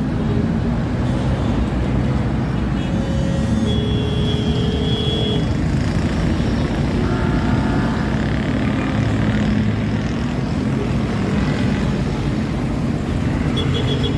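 Steady low rumble of road traffic, with a short steady tone about four seconds in.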